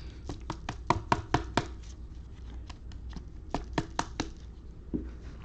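Trading cards being flicked through one at a time in the hand, a series of short sharp card snaps in two quick runs.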